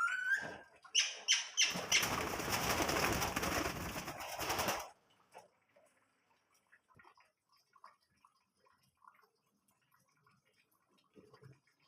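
Pet cage birds giving a few short rising calls, then about three seconds of loud wing flapping that stops abruptly, followed by faint scattered ticks.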